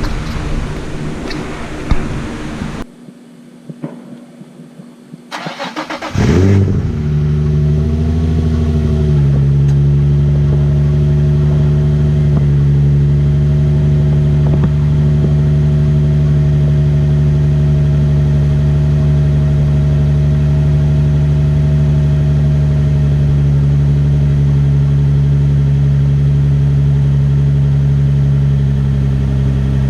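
Nissan 350Z's VQ35DE V6 starting about six seconds in through an ISR single-exit cat-back exhaust, revving up briefly, then settling into a steady idle.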